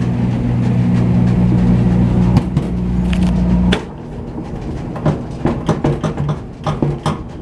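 A steady, low machine hum, one even pitch with its overtones, that cuts off abruptly about four seconds in, followed by scattered light clicks and knocks.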